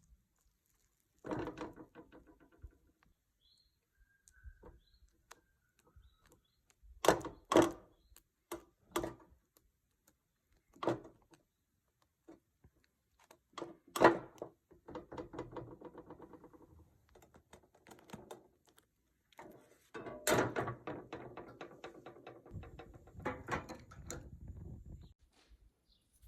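Thumps and knocks from saj bread being made, likely dough being handled, slapped and laid on the griddle, in irregular single strikes and short clusters, several with a brief ringing tail.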